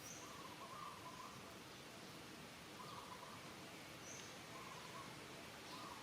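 Faint outdoor ambience: a steady low hiss with a short call repeated four times, a second or two apart, and a couple of brief higher chirps.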